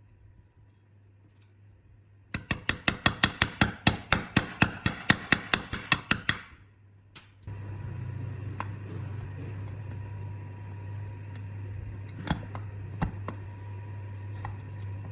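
A quick run of light, sharp metallic knocks, about five a second for some four seconds. After a short pause a steady low hum starts, with a few scattered clicks over it.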